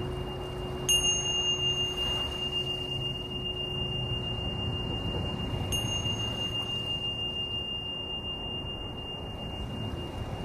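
A high, clear ringing tone, struck twice: about a second in and again about halfway. Each strike flashes brief higher overtones, then settles into a steady ring. Beneath it a lower crystal singing bowl tone fades out near the middle, over a low rumble of surf and wind.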